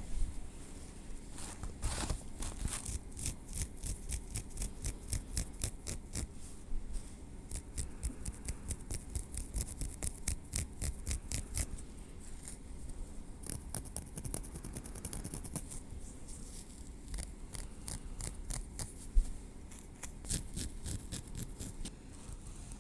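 Metal tweezers working through hair on the scalp: a long run of quick, soft, crisp clicks and small scrapes, several a second, with one louder tap about three-quarters of the way through.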